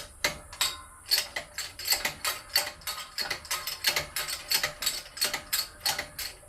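A steady run of sharp metallic ratcheting clicks, about three a second, from the press being worked to push the shaft and new bushings back into a control arm.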